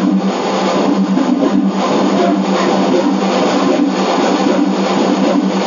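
Guitar music laid over the steady running noise of a moving train.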